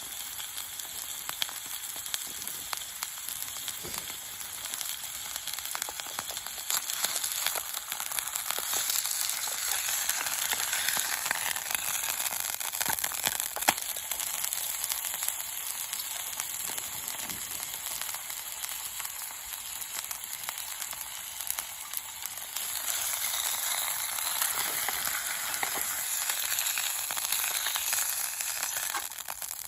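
Steak sizzling and spattering in a frying pan over a small camp stove: a steady crackling hiss full of small pops, which grows louder for a few seconds about a third of the way in and again near the end.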